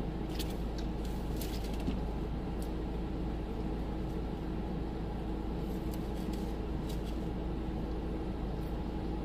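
Steady low rumble of a car cabin with a faint constant hum, and a few soft clicks and crinkles of someone eating fries.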